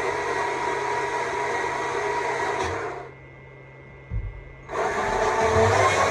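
Stihl MSA 200 C battery chainsaw running and cutting wood, a steady electric-motor whine. About three seconds in it is let off for roughly two seconds, with a low thump in the gap, then it runs up again.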